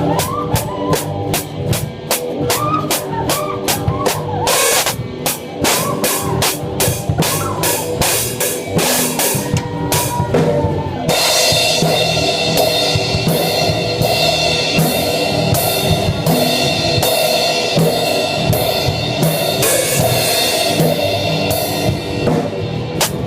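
Rock band practice dominated by a close drum kit played loud: bass drum, snare and cymbals in a steady beat over sustained guitar and bass notes. About eleven seconds in, the cymbals go to a continuous wash as the playing gets denser.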